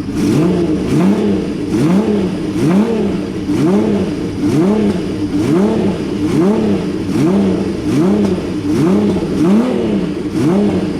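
Honda CBX1000's air-cooled inline six-cylinder engine revved through a new 6-into-1 exhaust in repeated quick throttle blips, the pitch rising and falling a little more than once a second.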